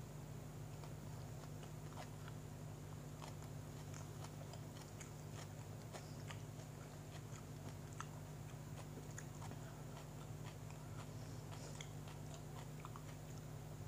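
A person chewing and biting into a sandwich, with small irregular mouth clicks and crunches over a steady low hum.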